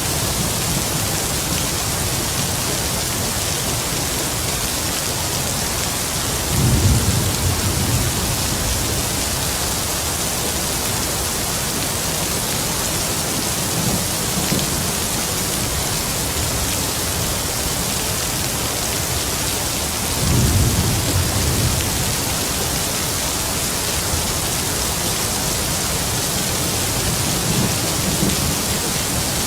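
Heavy rain falling in a steady hiss, with distant thunder rumbling low: two clearer rumbles about 7 and 21 seconds in, and fainter ones near the middle and the end.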